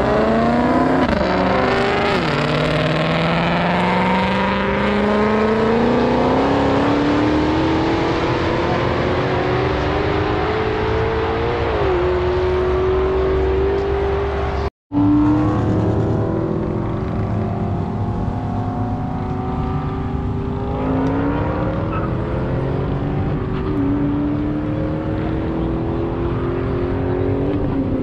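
A car engine accelerating hard under full throttle, its pitch climbing steadily and dropping back at each upshift. The sound breaks off for an instant about halfway through, then pulls through the gears again, with shifts in the last few seconds.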